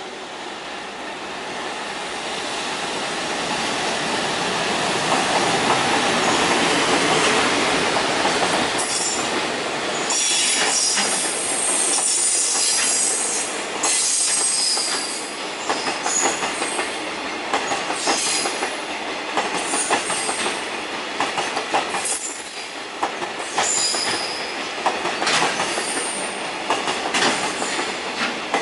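JR Freight train passing at speed: a swelling rush builds to its loudest about seven seconds in, then the fast clickety-clack of wagon wheels over rail joints runs on, with repeated high wheel squeal as the container wagons roll by.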